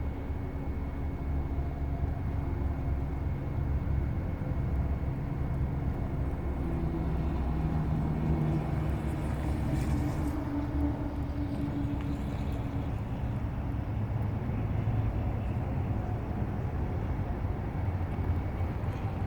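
2018 Audi A5 Coupe's 2.0-litre turbocharged four-cylinder engine running, its note shifting up and down in pitch, with a brief rush of hiss about halfway through.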